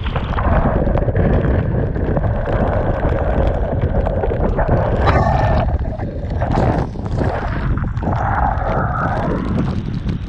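Strong wind buffeting the microphone, a steady low rumble with a rushing hiss over it that swells about halfway through and again near the end.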